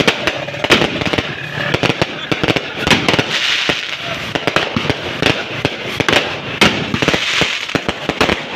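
Fireworks going off in a dense, continuous barrage: many sharp bangs and crackles in quick succession, thickening into a fizzing crackle twice, about three seconds in and again near the end.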